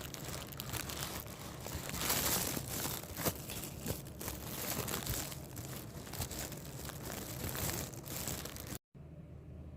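Continuous crinkling and crackling, like plastic or foil being handled, with many small clicks. It cuts off abruptly near the end, leaving a quieter low hum.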